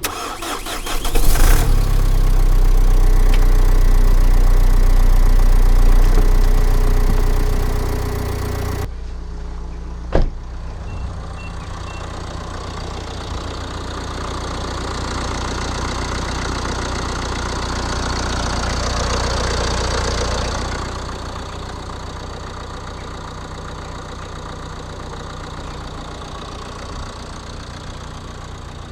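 Nissan X-Trail 2.0 dCi four-cylinder diesel starting from cold: a brief crank, the engine catches within about a second, then it runs loud at a fast cold idle. About nine seconds in the sound drops suddenly, there is one sharp knock a second later, and the engine keeps idling steadily.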